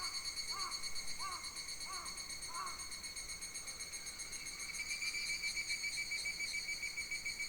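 Summer forest insects chirring: a steady, fast-pulsing high trill that runs through. In the first three seconds a second animal repeats a short rising-and-falling call about every two-thirds of a second, then falls silent.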